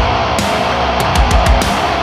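Heavy rock band playing instrumental: distorted electric guitars over a drum kit, with kick-drum thumps and cymbal hits in a steady beat.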